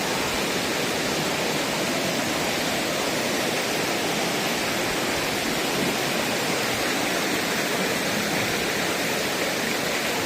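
Waterfall: a steady rush of falling water, loud and unchanging.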